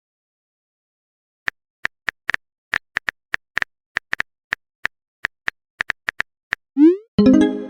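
Phone keyboard typing clicks: about twenty quick, irregular taps over some five seconds. Near the end comes a short rising chirp and a tone, a message-sent notification sound.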